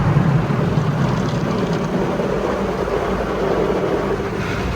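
Automatic car wash brushes spinning and scrubbing over the car, heard from inside the cabin as a loud, steady rumbling wash of noise.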